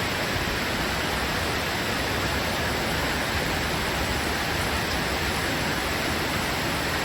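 Steady rushing of a flooded creek in spate, its water pouring over a low wall and across the road.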